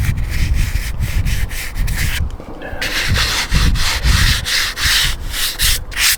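Repeated rubbing and scrubbing strokes on the crusty old battery's case, wiping off grime, with a short pause a little over two seconds in.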